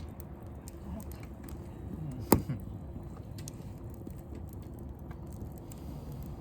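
Wood fire crackling with scattered small pops, and one sharp loud pop a little over two seconds in.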